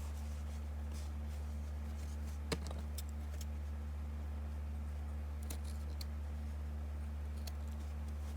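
A steady low electrical hum, with scattered small clicks and taps of craft materials being handled. One sharper click comes about two and a half seconds in.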